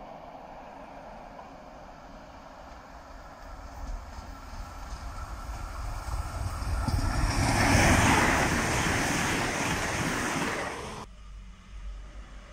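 A train approaching and passing at speed, its noise building steadily into a loud rush that peaks about eight seconds in. The rush cuts off abruptly near the end, leaving a quieter low rumble.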